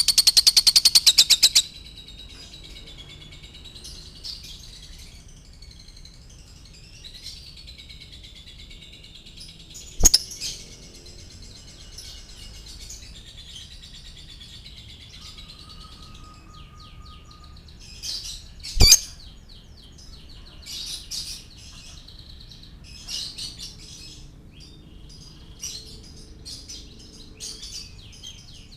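Lovebird chirping and chattering: a loud, fast trill of chirps in the first second or two, then steady high twittering. Two sharp clicks come through, about ten seconds in and again near nineteen seconds.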